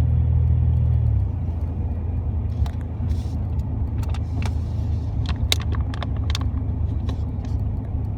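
Pickup truck on the move, heard from inside the cab: a steady low engine and road drone that eases off about a second in. Scattered light rattles and clicks from loose things in the cab.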